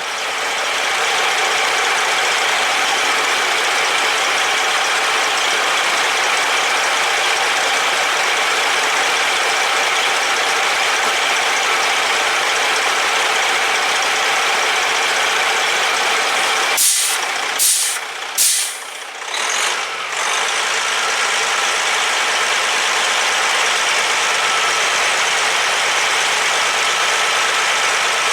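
Steady, loud hiss of compressed air escaping in the truck's air system. About two-thirds through it is broken by three short, sharp blasts and a brief drop in level.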